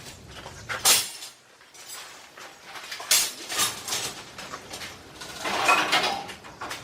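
Dishes and utensils clinking and knocking: a few separate sharp strikes, then a longer clatter near the end.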